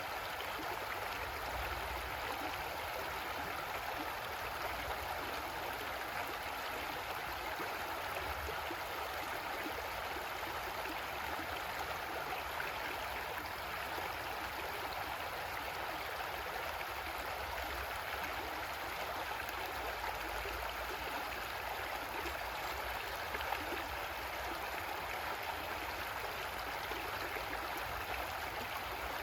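Creek water running and gurgling over rocks, a steady even rush.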